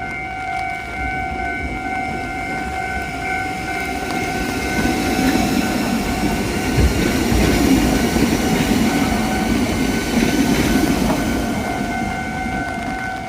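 Kotoden electric train passing over a level crossing, growing louder from about four seconds in, loudest in the middle and fading near the end. The crossing's electronic warning bell rings steadily throughout, partly drowned out while the train is closest.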